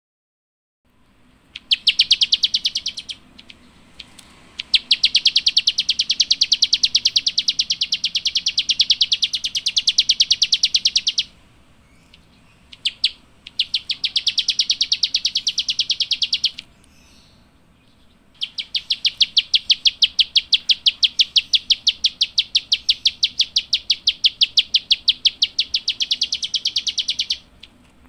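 A small songbird giving its rapid 'klik klik' call: long, fast runs of sharp clicking notes in four bouts, the longest about nine seconds, with short pauses between.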